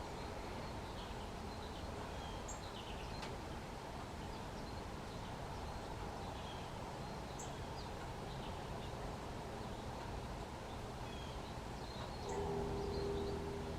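Scattered short, high chirps from small birds over a steady low outdoor rumble, with a brief low hum rising near the end.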